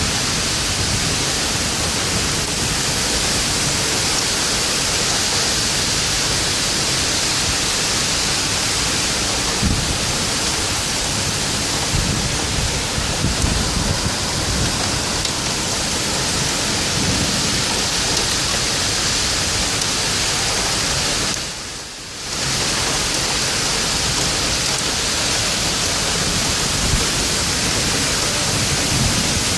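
Torrential rain pouring steadily in a severe thunderstorm, with low gusts of wind buffeting the microphone. The sound drops away for about a second about three-quarters of the way through, then comes back.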